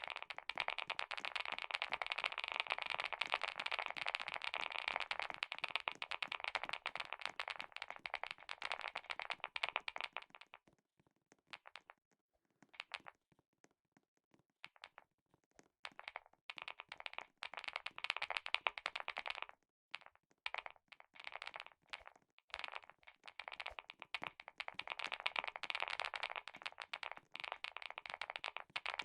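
Fast typing on a clicky keyboard: quick runs of sharp key clicks, with a few seconds of only scattered clicks around the middle and some short stop-start bursts before the typing picks up again.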